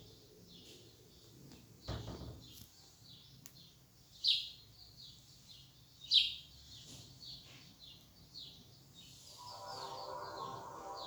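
Small birds chirping: a run of short, high, falling chirps, two of them louder about four and six seconds in. Music comes in near the end.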